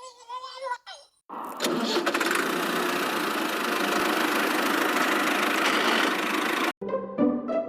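An engine cranks and starts, then runs with a dense, rough clatter for about five seconds and cuts off abruptly.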